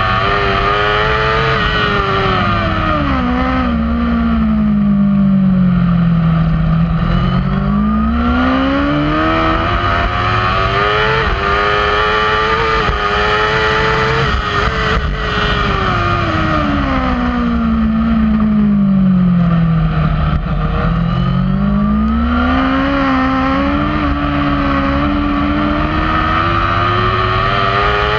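Kawasaki inline-four superbike engine heard onboard at race speed. Its note falls smoothly twice as the rider slows for a corner, and each time climbs back up under hard acceleration, with a steady rush of noise underneath.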